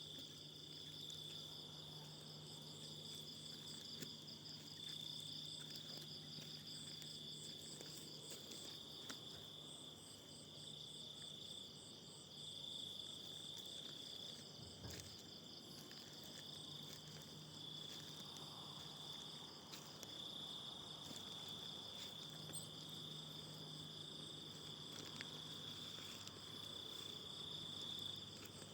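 Faint, steady chorus of insects trilling in a fast pulsing rhythm, with a low hum underneath and a few light clicks.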